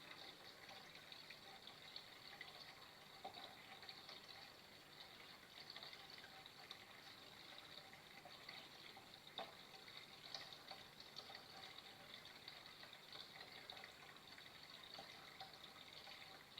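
Flowing water, a faint steady trickle with small splashing ticks now and then.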